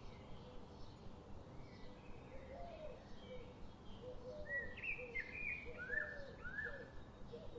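Canada geese and their goslings calling softly: a steady series of short, low notes, with a cluster of louder, higher chirping peeps in the middle.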